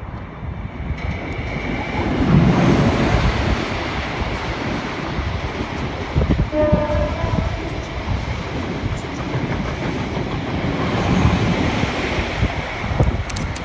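A train running past close by, its rumble swelling about two seconds in, with a brief blast of the locomotive horn about six and a half seconds in.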